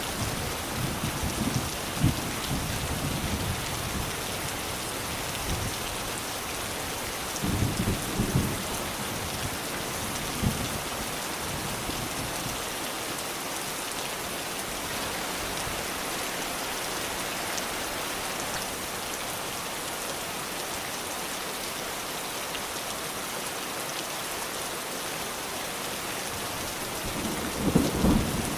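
Steady rain falling, with low rumbles of distant thunder in the first ten seconds or so and another rumble building near the end.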